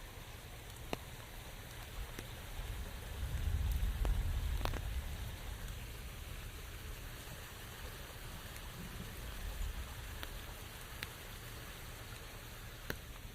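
Steady rain falling on a surface, with scattered single drops ticking sharply. A low rumble swells and fades a few seconds in.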